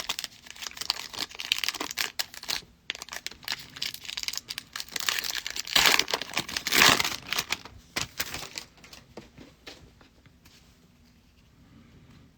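A foil trading-card pack wrapper being torn open and crinkled, with close, crackling handling noise that is loudest about six to seven seconds in. Over the last few seconds it dies down to faint light rustles.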